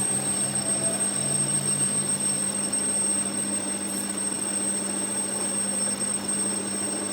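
A machine running steadily, with a constant hum and a thin high whine.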